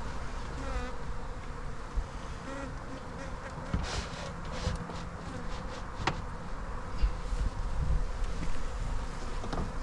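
Honey bees buzzing in a dense, steady hum around a crowded hive, with a few sharp clicks partway through and near the end.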